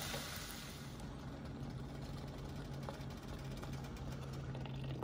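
Sausage, peppers and onions sizzling in a skillet, the sizzle dying away about a second in. A steady low hum runs underneath throughout, with a few faint clicks.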